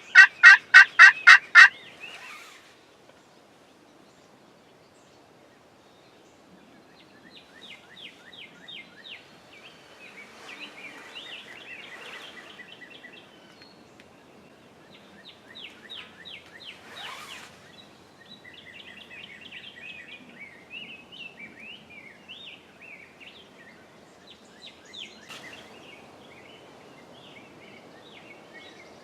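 A wild turkey tom gobbles loudly once at the very start, a fast rattling run of notes. After that come fainter rapid chirping bird calls on and off.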